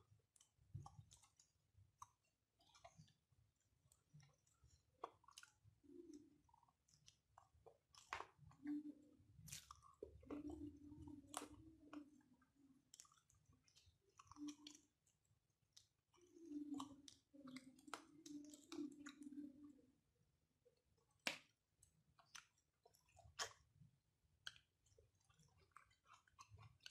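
Faint, close chewing of a mouthful of rice eaten by hand, with sharp wet mouth clicks and smacks at irregular intervals.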